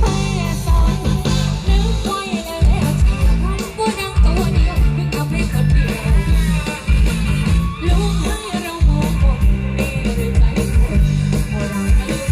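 Live Thai folk-pop band music amplified through a roadshow sound truck's speaker system: heavy pulsing bass, drum kit, electric guitar and a singing voice with a steady dance beat.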